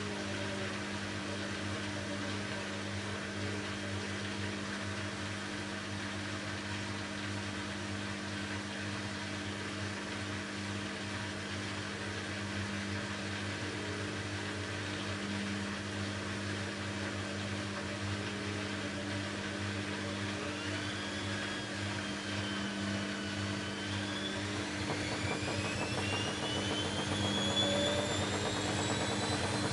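Bosch Maxx WFL 248Y front-loading washing machine with a steady hum, typical of its drain pump running. About two-thirds of the way through, the drum motor starts a rising whine as the drum speeds up into a spin.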